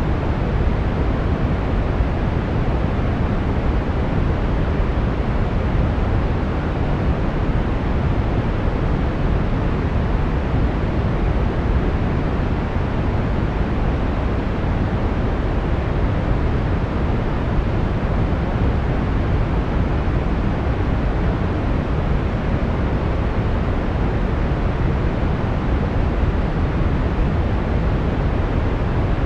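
Steady brown noise: an even, unchanging rumbling hiss, strongest in the lows and falling away toward the highs.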